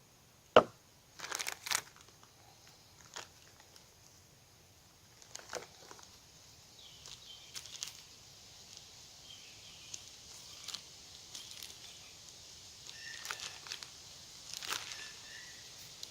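Handling noises while food is being made ready: a sharp click about half a second in, then a short run of crinkling and scattered small clicks and rustles, over a faint steady hiss.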